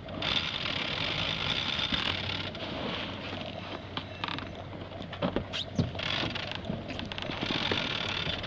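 Steady hiss of wind and water aboard a sailboat under way, coming up suddenly at the start, with scattered knocks and clicks.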